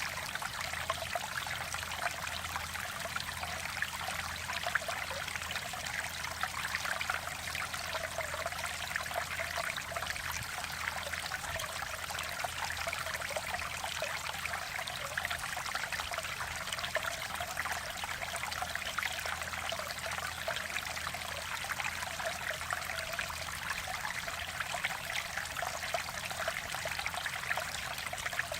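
Mountain stream water flowing and trickling over rocks, a steady babbling with fine splashy texture.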